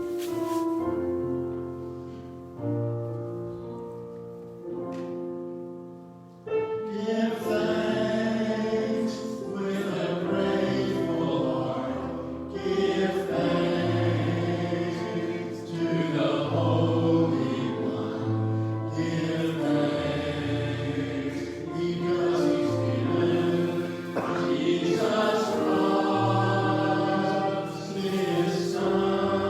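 A hymn with keyboard accompaniment: a few struck chords that fade away, then voices join the accompaniment about six seconds in.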